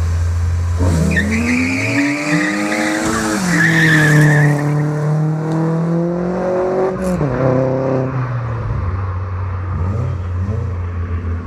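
Two cars, an Opel Astra with the Z20LET turbo engine and a BMW E36 328, launching from a standing start and accelerating hard. About a second in the engine note climbs under a high squeal, drops sharply at a gear change about three seconds in, holds, then falls away around seven seconds in as the cars pull off.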